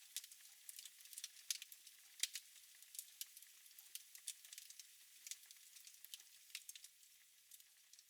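Wood fire in a fireplace crackling, with irregular sharp pops over a soft hiss.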